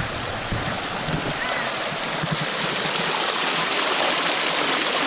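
A creek's water rushing, a steady loud rush of running water that starts suddenly.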